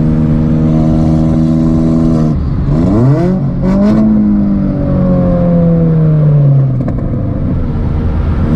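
Big-turbo VW Jetta engine running steadily under way, then its revs climb sharply twice about two to four seconds in and fall away slowly before settling again. The engine is running smooth.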